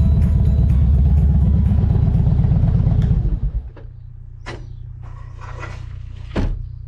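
Harley-Davidson Twin Cam 88 V-twin engine running loudly with a rapid low pulse, then dropping to a quieter steady idle about three seconds in as the bike comes to a stop. Two short sharp clicks follow near the end.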